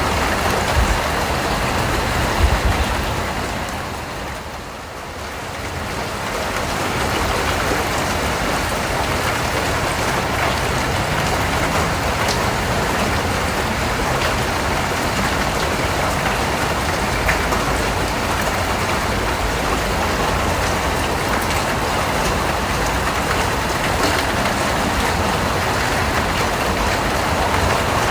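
Steady rain falling, a dense even hiss of drops. It fades down briefly about four seconds in and swells back up by about seven seconds, with a few low thuds in the first seconds.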